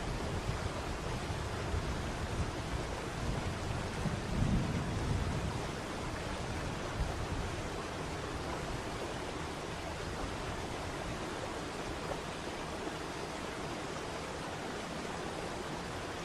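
Waterfall: a steady rush of falling water, with a heavier, uneven low rumble for the first several seconds that eases off about six seconds in.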